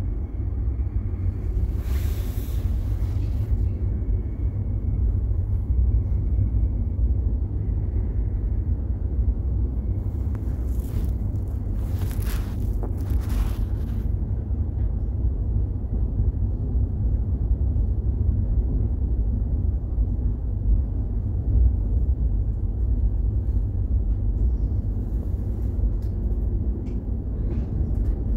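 Cabin noise inside a regional electric train: a steady low rumble as it runs alongside the platform and slows to a stop. A faint high whine sounds in the first few seconds, with short hisses a couple of seconds in and again between about 10 and 14 seconds.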